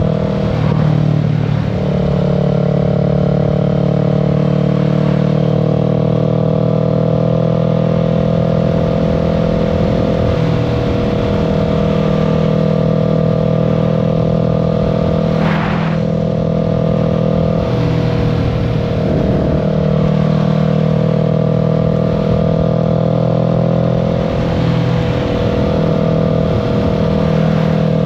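Kawasaki Z650's 649 cc parallel-twin engine running steadily under way, its pitch shifting briefly a few times. A short whoosh about halfway through.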